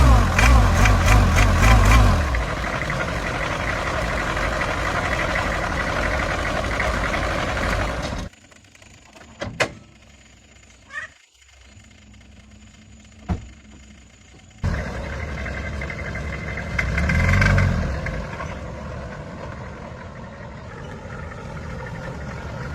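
Car engine running, with a brief rev near the middle of its second stretch. It cuts off abruptly for several seconds, leaving a quieter stretch with a few sharp clicks, then runs again.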